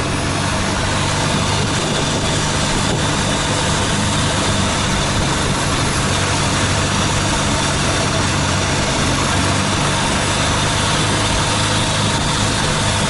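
A motorboat's engine running steadily under way, with an even rushing noise of wind and water over it.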